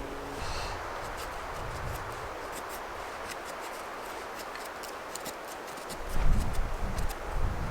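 Steady hiss of rain in woodland, with scattered sharp ticks throughout. Heavy low thuds start about six seconds in and are the loudest sounds.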